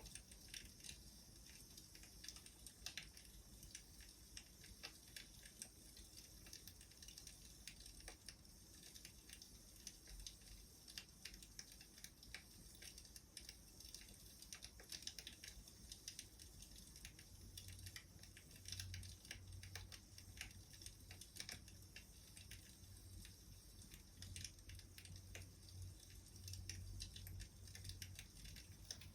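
Faint crackling of a wood fire: many small, irregular pops and snaps. A faint low hum comes in about halfway through.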